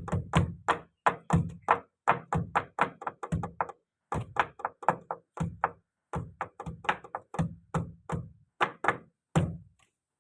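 A fast series of knocks or thunks, about four a second, in short runs broken by brief pauses, stopping just before the end.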